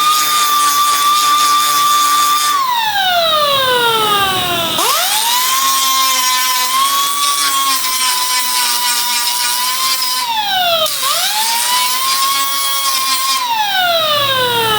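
Power grinder whining at steady speed while grinding down spot-weld lumps on a door opening. Its pitch falls away as the trigger is let off, spins back up, dips and recovers, then falls away again near the end.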